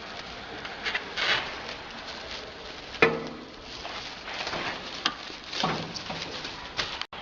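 Handling noises: scuffing and rustling, with one sharp knock that rings briefly about three seconds in.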